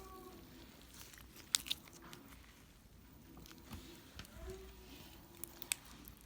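Slime being folded and squished by hand as pom-poms are mixed into it: faint wet crackling and squelching, with a few sharp little pops, two about a second and a half in and two more near the end.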